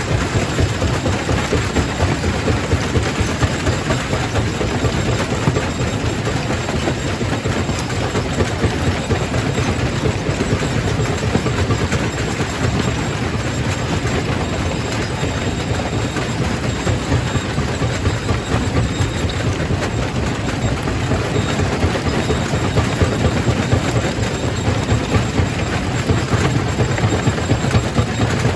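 Quarry primary rock crusher running, with rock being broken and clattering through it in a steady, dense, heavy din.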